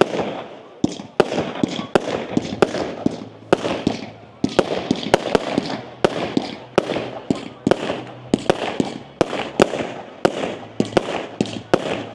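A fireworks display going off in quick succession: sharp bangs about two to three a second, with crackling between them.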